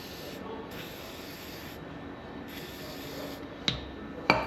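Three short bursts of pressurized spray hissing, then two sharp clicks of metal parts near the end.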